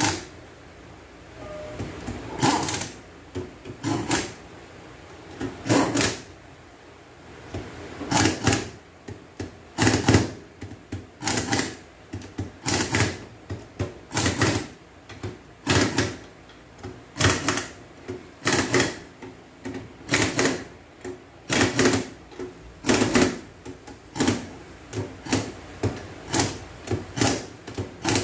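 Repeated sharp metallic clacks from hand tools at work on an automatic transaxle, about one a second, at an uneven pace.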